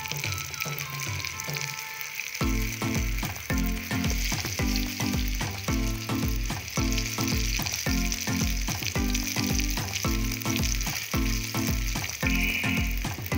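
Besan-coated aloo tikkis sizzling steadily as they shallow-fry in hot oil in a pan. Background music with a steady beat plays over it, its beat coming in about two seconds in.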